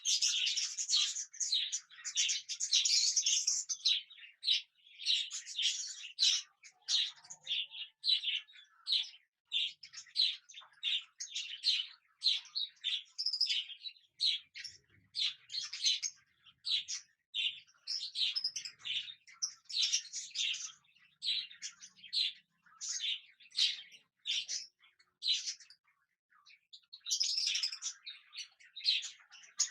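Cockatiels chirping over and over, a quick run of short, high-pitched calls several a second, with a brief pause about three-quarters of the way through.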